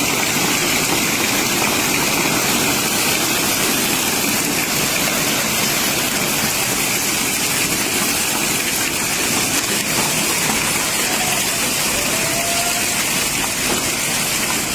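Heavy rain mixed with hail coming down hard: a steady, dense hiss of rain and hailstones striking surfaces.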